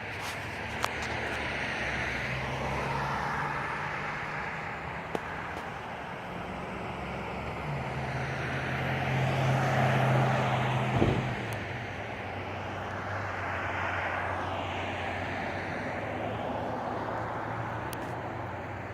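Motor vehicles passing, engine and tyre noise swelling and fading several times, loudest about ten seconds in, with a steady low engine hum underneath. A few sharp clicks come through early on.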